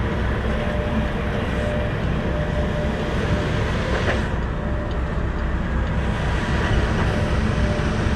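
Semi truck's diesel engine running as the tractor drives slowly without a trailer: a steady rumble with a faint steady whine over it.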